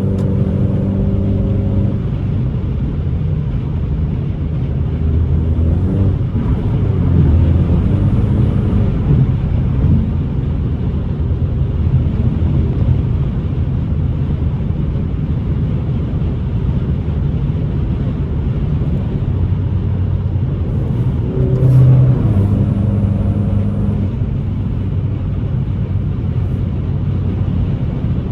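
Ford Mustang's turbocharged 2.3-litre four-cylinder EcoBoost engine pulling the car along, with a steady rumble of road noise. The engine note rises and falls a few times as the throttle changes, once about a third of the way in and again late on.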